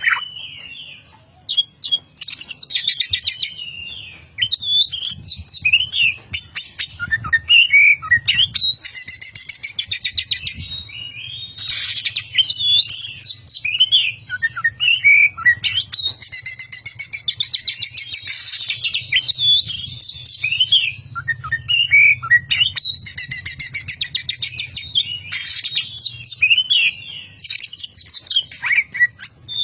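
Oriental magpie-robin singing loudly and without pause, mixing quick whistled slides with several long runs of rapid buzzing chatter that mimic a lovebird's chattering song.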